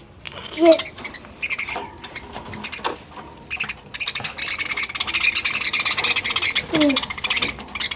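Budgerigars chattering: dense, rapid high-pitched chirps and squawks, busiest in the second half, with a couple of short lower falling calls about a second in and near the end.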